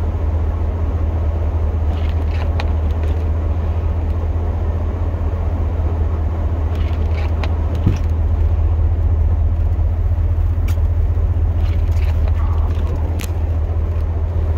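Pickup truck engine idling steadily, heard from inside the cab as a constant low hum, with a few faint clicks and a small knock about eight seconds in.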